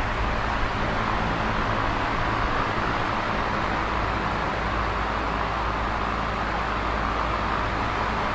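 Electric fan running steadily: an even whirr of moving air with a low motor hum underneath.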